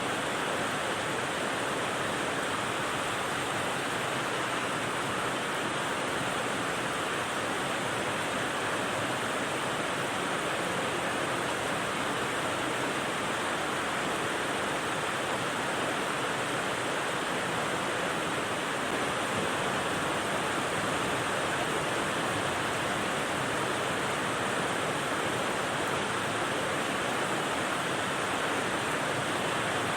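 Steady rain white noise: a dense, even hiss of rainfall with no single drops or gusts standing out, unchanging throughout.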